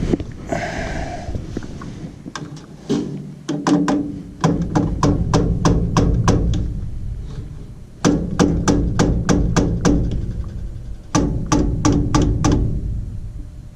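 Sharp tapping on a mechanical relay on a Carrier furnace's control board, in three runs of quick taps, several a second, with short pauses between. The relay is stuck, a sign of a bad control board.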